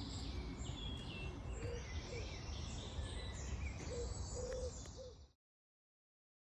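Several birds singing and chirping over a steady low outdoor rumble, with a few short low calls in the middle. The sound cuts off abruptly near the end.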